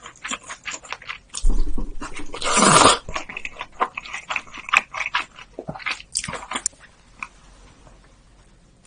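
Close-miked eating sounds: chewing with wet mouth clicks and smacks, a louder rushing noise about two and a half seconds in and a shorter one around six seconds, growing quieter near the end.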